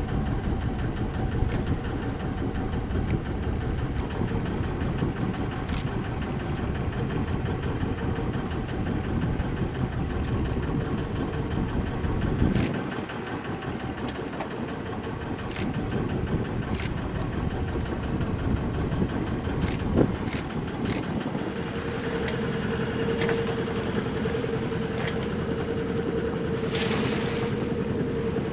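Sailboat's inboard engine running steadily under way, a constant low rumble with a hum, broken by a few sharp clicks. The sound changes abruptly about 13 seconds in and again a little past 20 seconds, where the hum grows stronger.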